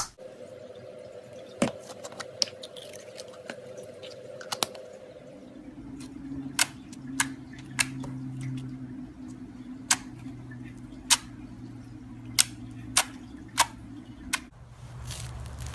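Slime being squeezed and poked, giving sharp, separate popping clicks as air pockets burst, over a faint steady hum.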